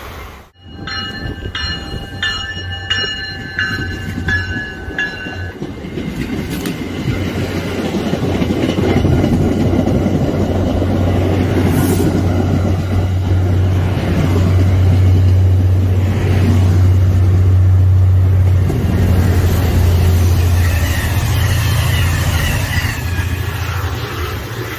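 Multi-note train horn sounding several short blasts, then a train passing with a loud, steady low rumble and wheel clatter that swells and then eases.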